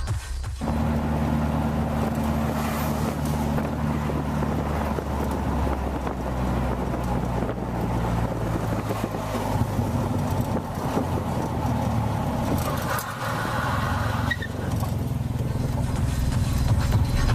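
Three-wheeled motorcycle (trike) engine running at a steady pitch, with road noise. The engine note shifts to a different pitch about six seconds in.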